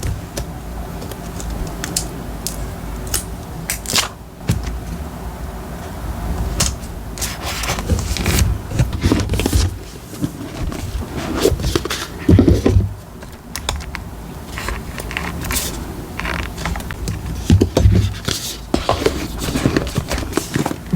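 Paper and stickers being handled on a desk during diary decorating: rustling, scraping and crackling, with sharp clicks and taps throughout and a few low thumps.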